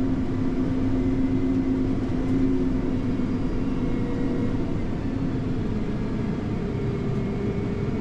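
Bergmann C912s tracked dump truck running steadily as it drives through mud: a continuous engine drone with a held whine, which gives way to a higher whine about two-thirds of the way through.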